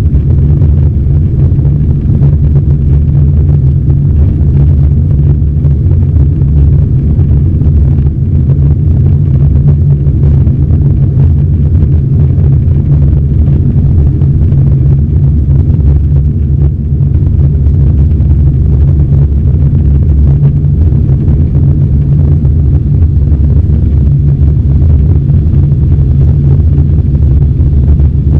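Steady, loud roar of an Airbus A320's CFM56 jet engines and airflow, heard from inside the passenger cabin, with no change in pitch or level.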